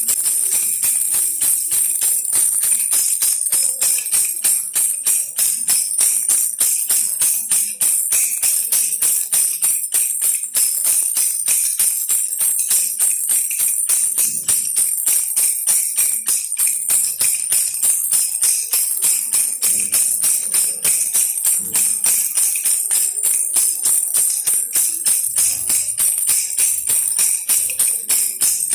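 Baby rattle toy shaken steadily in quick, even strokes, giving a continuous high-pitched jingling rattle.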